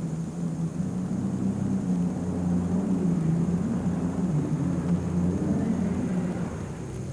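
Super stock pulling tractor's engine running hard under load down the track, its pitch wavering with engine speed, fading near the end as the run winds down.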